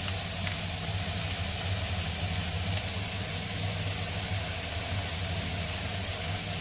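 Sliced onions and bell peppers sizzling steadily in olive oil in a frying pan, with a steady low hum underneath.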